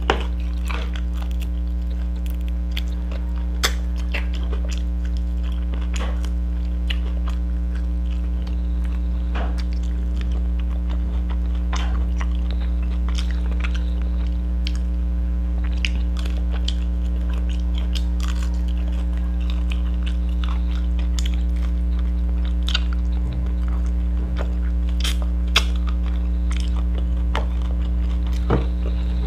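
Close-miked chewing and mouth smacks of a person eating fried pompano and rice by hand, in scattered short clicks, over a steady low electrical hum.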